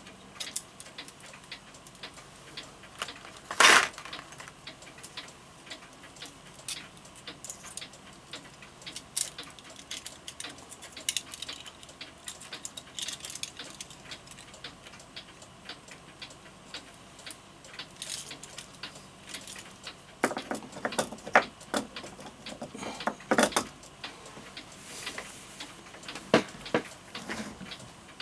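Scattered light clicks and ticks from work on an F. Kroeber mantel clock movement, with a louder knock about four seconds in and a run of louder knocks about twenty seconds in.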